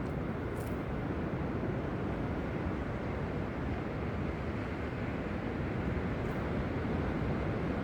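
Steady rush of wind and sea surf at the shore: an even low noise with no distinct events.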